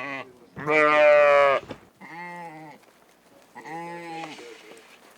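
Sheep bleating: several separate bleats, the loudest about a second in, followed by softer ones.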